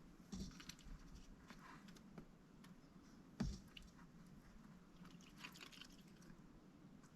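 Faint wet clicks and scrapes of a mallard duck working its bill in water or food, with one louder knock about three and a half seconds in.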